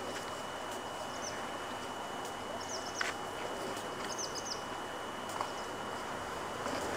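Outdoor ambience with a bird chirping three times, each a quick run of a few high notes, over a faint steady high whine; a single sharp click about three seconds in.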